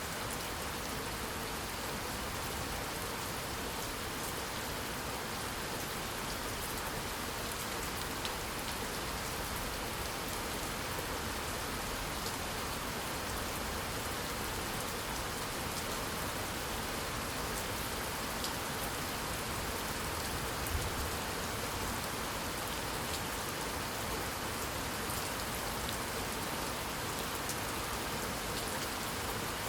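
Steady rain falling, an even hiss with scattered drop ticks, and a brief low thump about two-thirds of the way through.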